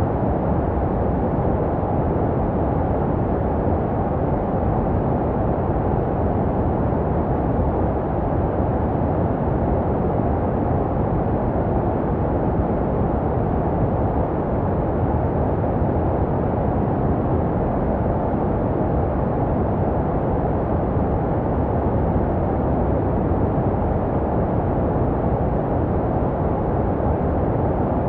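Steady, muffled baby-sleep white noise: an even low rushing hiss with most of its weight in the low and middle range and little treble, made to resemble the sound a baby hears in the womb. It holds the same level without change.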